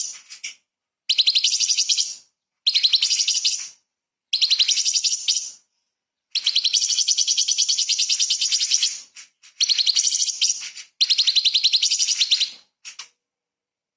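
Orange-bellied leafbird (cucak cungkok) singing: about six loud, rapid chattering phrases of quickly repeated high notes, each one to three seconds long with short pauses between, the longest phrase near the middle.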